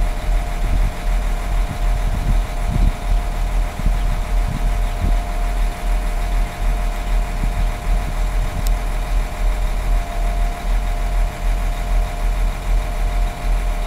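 Intercity passenger train rolling slowly into its terminus station, with a steady high tone that holds throughout over an uneven low rumble.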